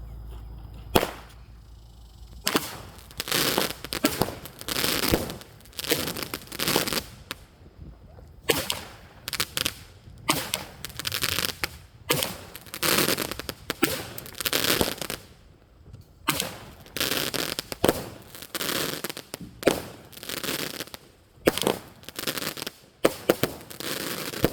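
Elite Fireworks Poison Pogo, a 200-gram consumer firework cake, firing shot after shot. A first bang comes about a second in, then clusters of sharp bangs and pops follow at roughly one a second.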